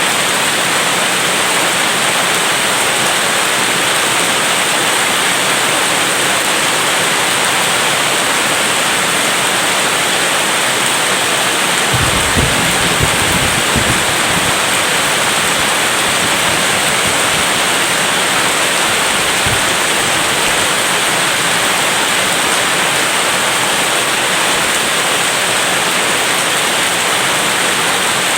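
Heavy rain falling steadily in a dense, even hiss. About twelve seconds in, a short low rumble of thunder lasts a couple of seconds, with a fainter low rumble a few seconds later.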